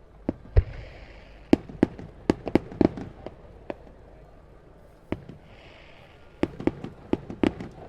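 Daytime firework shells bursting in two rapid volleys of sharp bangs, the first in the opening few seconds and the second starting about five seconds in. A deep boom just over half a second in is the loudest report.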